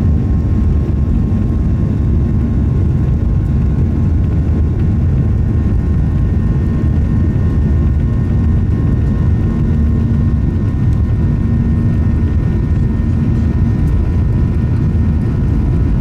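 Boeing 737-800's CFM56-7B turbofan engines at takeoff thrust, heard inside the cabin: a loud, steady deep rumble with a faint steady whine above it.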